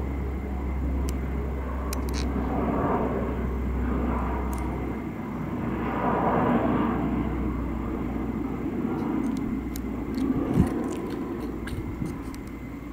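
US military aircraft engine noise: a steady low rumble that swells about six seconds in, with one brief thump near the end.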